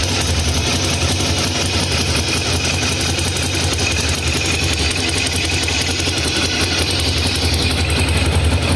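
Ducati Monster 1100 EVO's air-cooled L-twin engine running steadily at idle after its timing belts and tensioner rollers were replaced.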